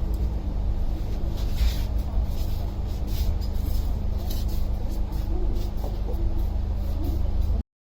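Steady low rumble of a moving road vehicle heard from inside, with a steady hum and scattered light rattles. It cuts off abruptly near the end.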